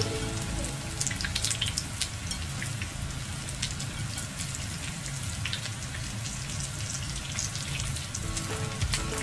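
Hot oil crackling and popping in a steady sizzle, as food deep-fries. Soft background music drops away about half a second in and comes back near the end.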